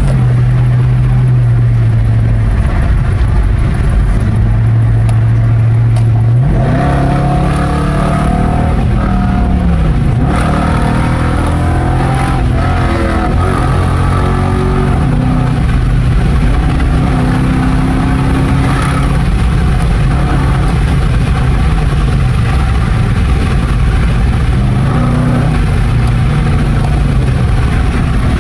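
Dodge R/T's 5.7-litre Hemi V8 running with its resonator and mid mufflers removed, droning steadily, then about six seconds in accelerating hard, its pitch rising and dropping back a few times before it settles into a steady drone again.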